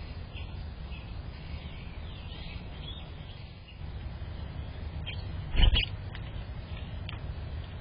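Small birds chirping faintly now and then over a steady low rumble, with one loud short thump about two-thirds of the way through.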